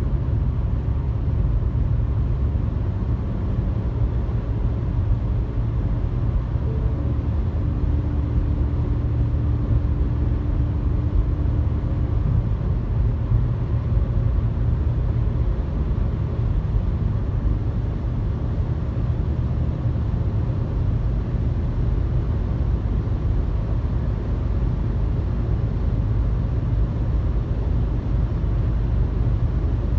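Car driving at highway speed, a steady low road and engine rumble heard from inside the cabin. A faint steady tone sits over it for a few seconds about eight seconds in.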